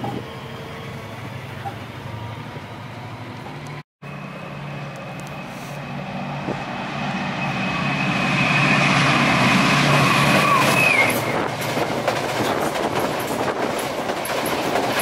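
A diesel passenger train on the Chiltern line comes up and passes close by: a first train fades away, then after a brief break another grows louder, its engine running with a steady high whine. Near the end the whine drops away and the wheels clatter over the rail joints and points as the coaches go past.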